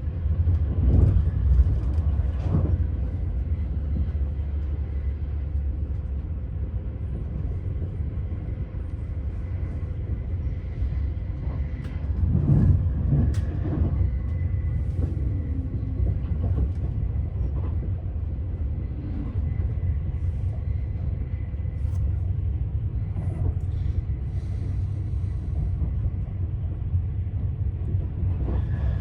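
Passenger train running, heard from inside the carriage: a steady low rumble of the wheels on the track, with a few short knocks and a faint steady whine.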